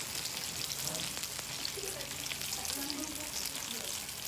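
Pieces of stingray deep-frying in a pan of hot oil: a steady sizzle full of fine crackling pops.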